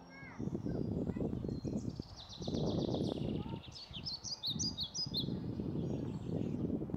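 Small birds chirping: a quick run of high twittering notes, then louder separate chirps about halfway through, over a gusty low rumble.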